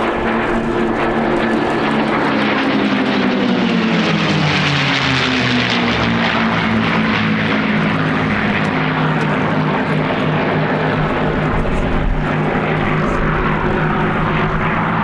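Piston engines of P-51D Mustangs (Packard Merlin V-12s) running as the formation flies past. The engine note drops in pitch between about three and six seconds in as the aircraft go by, then holds steady.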